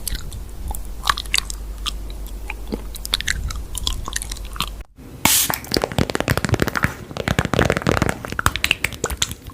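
Close-miked chewing and crunching, with many sharp crackles; the sound stops briefly about five seconds in, then comes back louder and denser.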